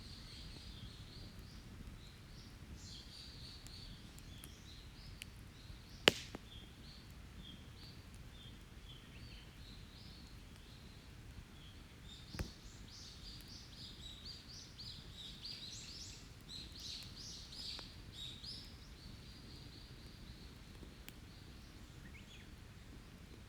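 Forest birds chirping and calling over a low steady background, with a wood campfire giving one sharp pop about six seconds in and a smaller one about twelve seconds in.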